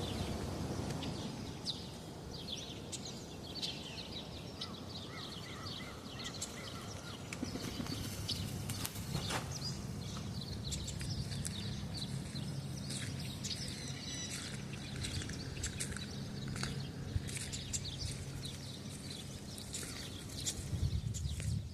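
Many small birds chirping and singing in overlapping calls and trills, over a steady low rumble.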